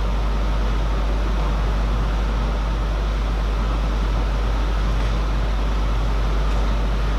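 Steady background noise with a strong low hum and a hiss, unchanging in level, with two faint ticks in its second half.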